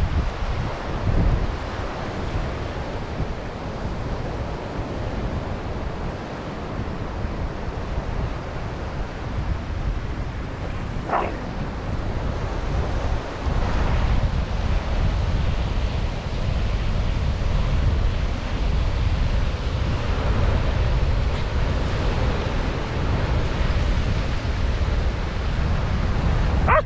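Ocean surf washing steadily on the beach, with wind buffeting the microphone in a low rumble. A brief short sound cuts through about eleven seconds in.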